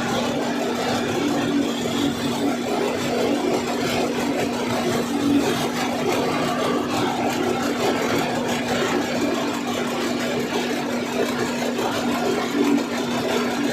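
Cummins NTA855 inline-six turbo diesel on a rubber-tyred gantry crane, running steadily at constant speed with no load on it.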